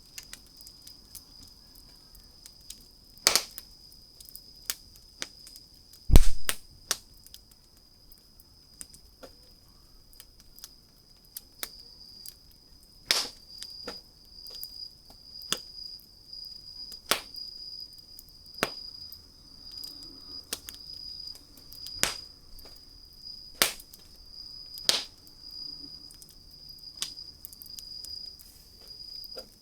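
Wood fire crackling, with irregular sharp pops and snaps, the loudest about three seconds in, and a deep thump about six seconds in. A steady high-pitched tone runs underneath and becomes a pulsing trill about halfway through.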